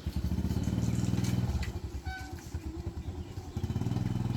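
A small engine running with a rapid, even beat that swells twice: loud at the start, easing off after about a second and a half, and rising again near the end.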